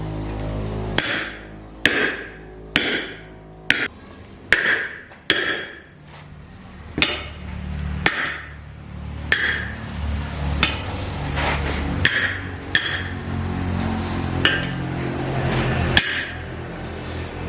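A hammer striking metal, about fourteen sharp blows at an uneven pace roughly a second apart, each with a short metallic ring, over a low steady hum.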